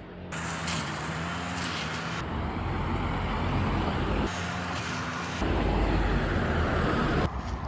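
A motor vehicle running, with a steady low hum under a noisy layer that shifts abruptly several times.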